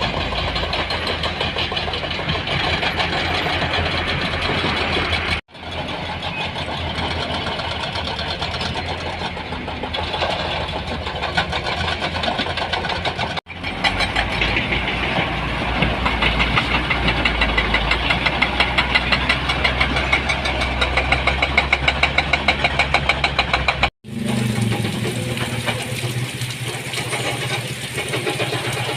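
Heavy-vehicle engines running steadily, in four stretches split by sudden cuts about 5, 13 and 24 seconds in.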